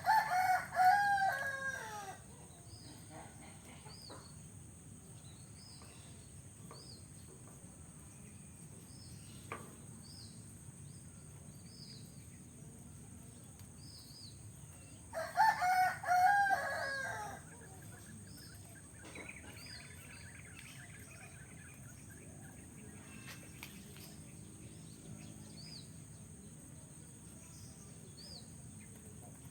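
A rooster crowing twice, about fifteen seconds apart, each crow lasting about two seconds. Between the crows a small bird gives short, high chirps about once a second.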